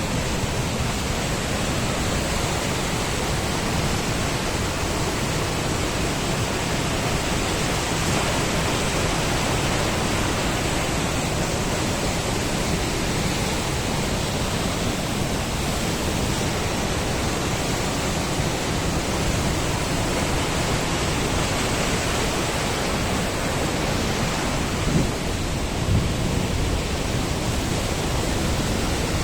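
Krimml Waterfalls, a large mountain waterfall, rushing with loud, steady, unbroken noise. A couple of brief low bumps come near the end.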